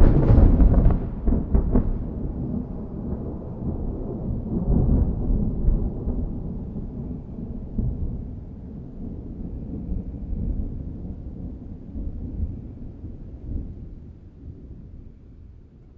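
Thunder: a sudden sharp crack with several loud crackles in the first two seconds, then a long low rolling rumble that slowly fades away.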